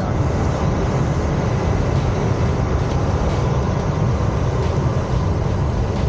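Steady rush of airflow around the cockpit of a KR-03 Puchatek glider in unpowered free flight, a constant low noise with no engine.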